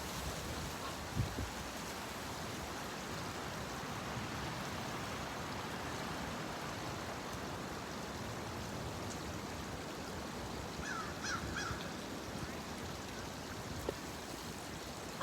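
Steady wind and water noise, with a quick run of three or four bird calls about eleven seconds in.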